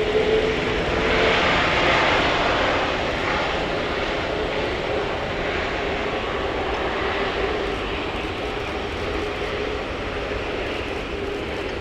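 Jet engine noise of a Boeing 747-400 freighter landing. It swells a second or two in and then slowly fades, over a steady hum.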